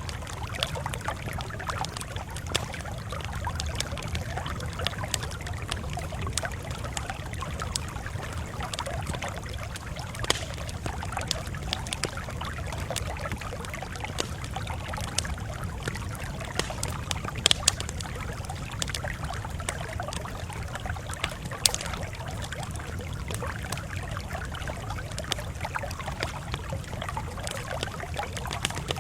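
Campfire crackling: a steady low rumble of flames with constant small snaps and a few louder sharp pops.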